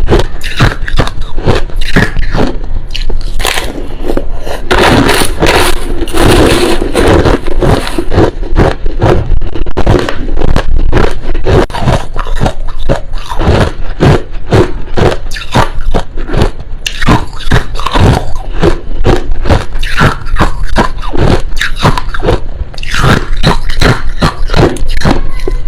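Crushed ice being bitten and chewed close to the microphone: continuous crunching, several crunches a second, with a denser grinding stretch about five to eight seconds in.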